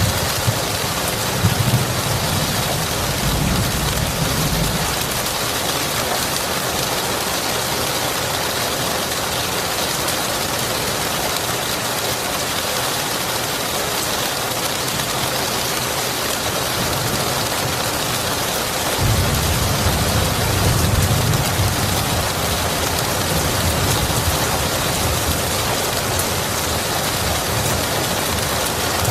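Steady rain hissing. Low thunder rumbles in the first few seconds and again about two-thirds of the way through, the second starting suddenly.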